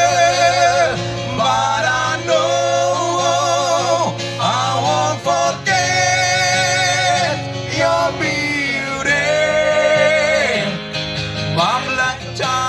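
Live music: a male voice sings long, wavering held notes over guitar.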